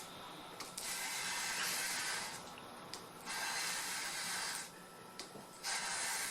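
Drawknife's steel edge scraping across emery paper in long, even strokes, about three hissing rasps with short pauses between: honing the bevel and smoothing the burr.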